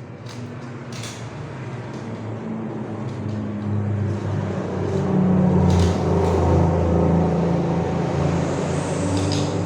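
A motor vehicle's engine running and growing steadily louder, with a few faint clicks over it.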